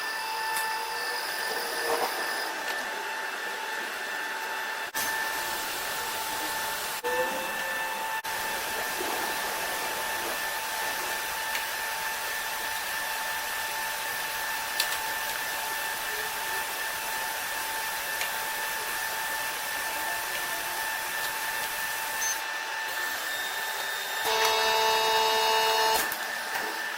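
Automated argon/CO2 welding machine running: a steady hiss with a constant whine. Near the end a louder, multi-tone buzz sounds for about two seconds.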